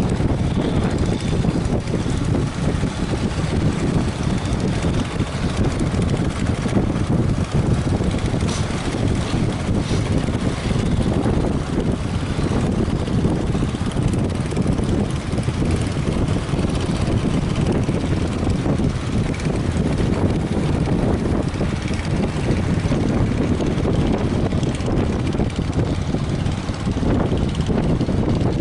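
Strong wind blowing across the microphone over the rumble of surf, a steady loud noise without pauses.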